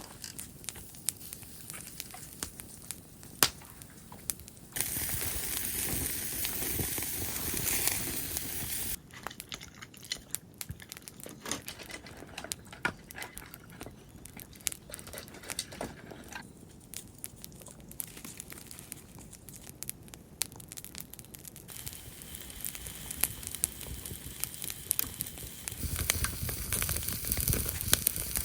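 Many small clicks and crackles with crinkling and tearing sounds, in several stretches that change abruptly. A steady hiss stands out from about five to nine seconds in.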